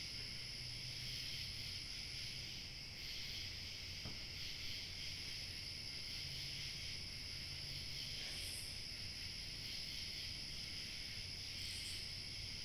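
Crickets chirping in a dense, steady high-pitched chorus, with a faint low hum underneath.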